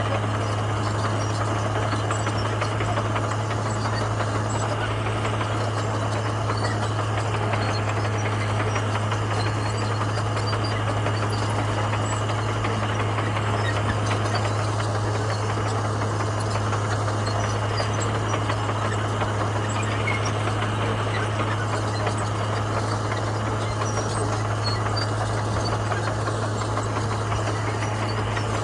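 Komatsu bulldozer's diesel engine running steadily, a constant low drone that holds the same pitch and level throughout.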